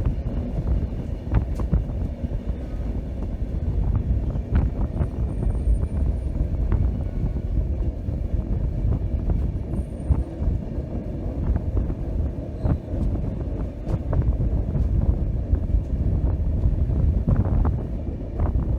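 Passenger train running along the track: a steady low rumble with scattered clicks and clacks from the wheels and rails.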